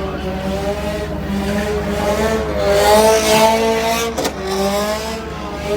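Car spinning its tyres in a burnout, the engine held at high revs and the tyres squealing in a wavering, shifting whine.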